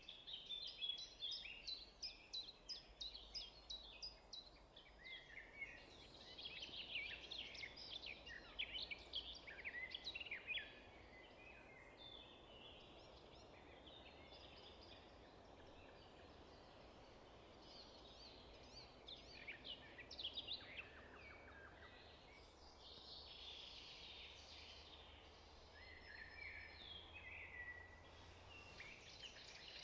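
Faint birdsong: many quick high chirps and trills from small birds, busiest in the first ten seconds or so and returning in bursts later.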